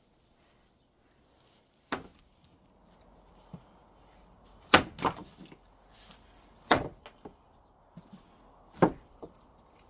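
Firewood being split with an axe: four hard chopping strikes about two seconds apart, each followed by a few lighter knocks of wood.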